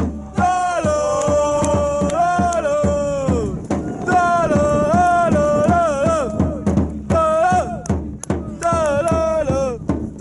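Football supporters singing a terrace chant in long held and sliding notes, with a drum beating.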